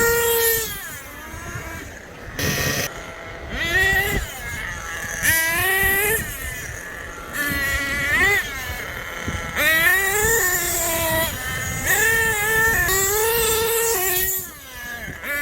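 Small nitro-engined RC trucks running flat out, their high-pitched engine whine rising and falling every second or two as the throttle is opened and backed off.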